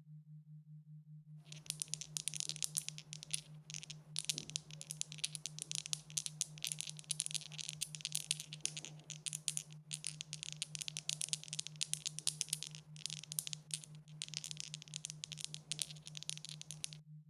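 Dice rattling continuously in dense, rapid clicks for about fifteen seconds, starting about a second and a half in and stopping shortly before the end. A steady low hum runs underneath throughout.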